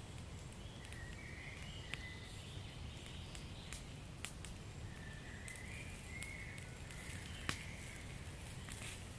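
Wood fire crackling over a low steady rumble, with scattered sharp pops; a faint wavering high whistle comes through twice.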